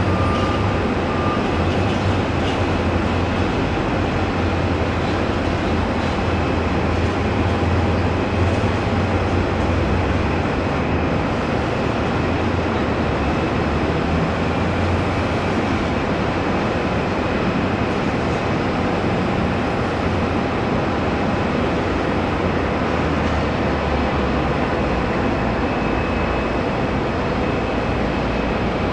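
Jet airliner engines running with a steady roar, with a faint thin whine above it and no rise or fall in level.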